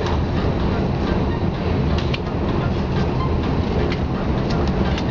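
Cabin noise of a KLIA Ekspres electric train running at speed: a steady low rumble with a few faint clicks.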